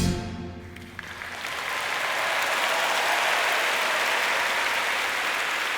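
The last notes of a band ring out and fade, then audience applause swells about a second in and carries on steadily.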